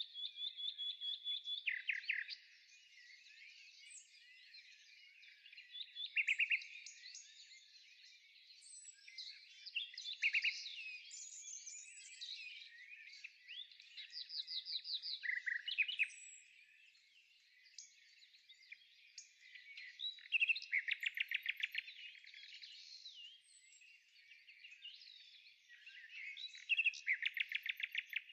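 Several songbirds singing together, a dense mix of chirps and warbles, with a fast trill of rapidly repeated notes coming back every four to six seconds.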